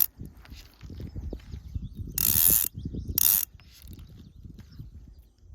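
Fishing reel ratcheting in two short buzzing bursts about two and three seconds in, the second shorter, over low rumbling handling noise.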